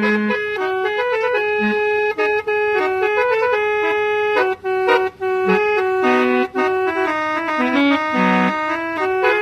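Musical car horn on an old Mercedes playing a Minang-style melody in reedy, organ-like notes, stepping from note to note with a few brief breaks between phrases.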